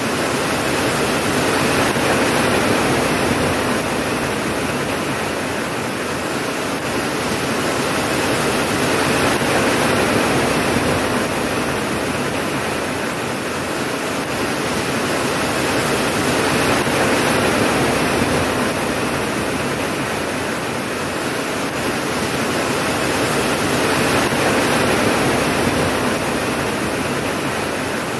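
Heavy, steady rain falling, a dense hiss that swells and eases about every seven seconds.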